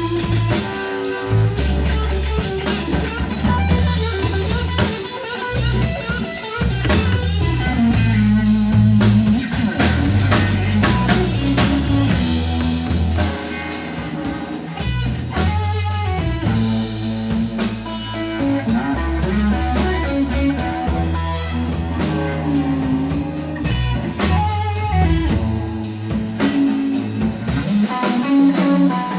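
Blues trio playing live: electric guitar playing melodic lines over drum kit and a walking low bass line.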